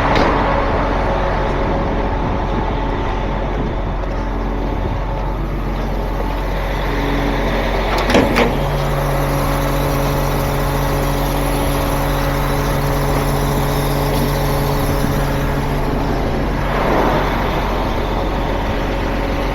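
Heavy tow truck's engine running steadily while it maneuvers, with a short sharp burst of noise about eight seconds in and a softer one near the end.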